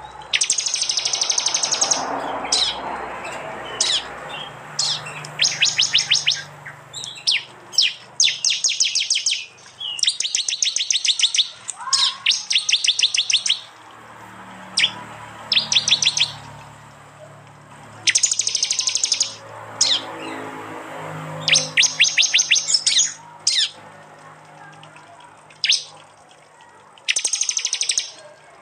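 Prinias (prenjak) and related small songbirds giving rapid-fire calls: repeated bursts of fast, sharp, high chattering notes, each about a second long, with short pauses between, over a faint low hum.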